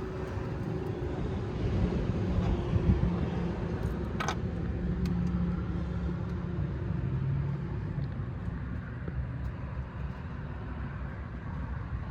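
Road traffic on a busy road: a steady low rumble, with a passing vehicle's engine note that holds and then drops in pitch.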